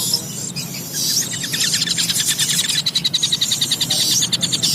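Stork-billed kingfisher (tengkek buto) calling: a fast, even run of repeated high notes that starts about a second in and keeps going, with a steady low hum underneath.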